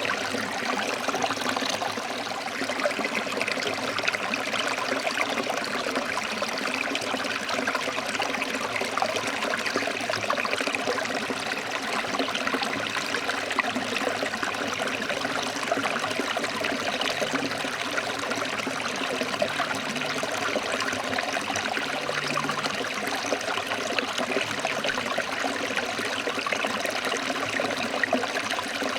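Forest stream flowing over rocks: a steady, even rush of water that does not change.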